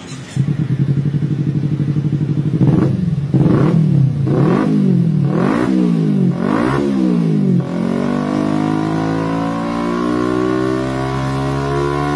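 Superbike engine through its exhaust: a steady idle starts about half a second in, then five quick throttle blips, each rising and falling in pitch. It then settles into a steady note that climbs slowly in pitch.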